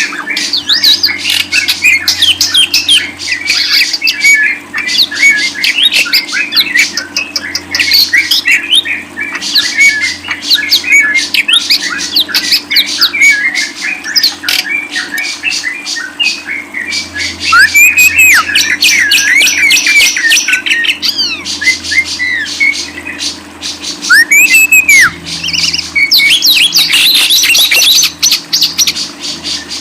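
Caged songbird singing a fast, continuous chattering song of rapid clicks and squawky notes, broken by a few up-and-down whistled glides; the song is loudest in the second half.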